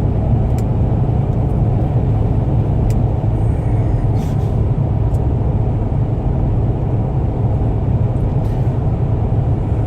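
Car cabin noise: a steady low rumble of the engine and road heard inside the vehicle.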